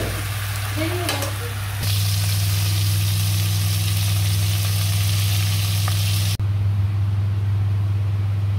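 Oil sizzling in a wok as vegetables and then fish pieces fry, over a steady low hum. The sizzle jumps louder about two seconds in and drops away abruptly about six seconds in, leaving mostly the hum.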